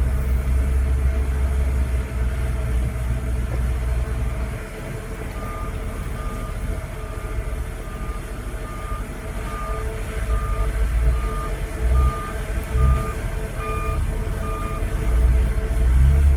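Heavy diesel earthmoving machinery running with a deep rumble. From about five seconds in, a reversing alarm beeps steadily, about a dozen beeps a little under a second apart.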